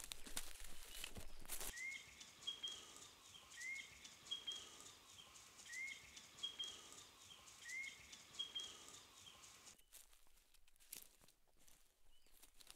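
A bird calling over and over, about every two seconds: each call a quick rising note followed by a higher note. At the start, a few crackling steps on dry bush ground. The calls stop abruptly near the end.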